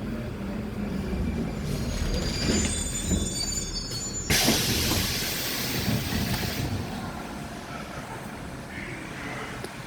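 Rusich metro train braking to a stop at a station, with high thin squeals from the wheels and brakes. About four seconds in a loud hiss of air starts suddenly and lasts a couple of seconds, after which the train stands with a quieter steady hum.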